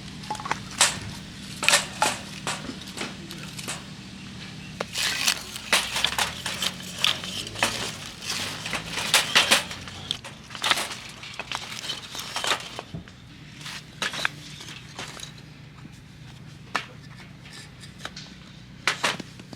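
Sharp crackles, snaps and clinks around a wood fire in a fire pit, densest through the middle and sparser near the end, over a faint low hum.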